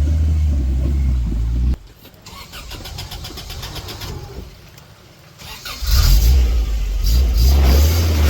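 Off-road 4x4 truck engine running loud, cutting off abruptly about two seconds in. A quieter stretch with faint fast ticking follows, then the engine comes back loud about six seconds in.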